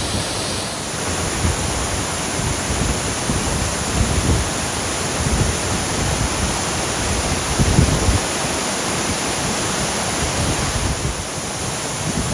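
Steady rushing of a waterfall and creek, with low gusts of wind buffeting the microphone now and then.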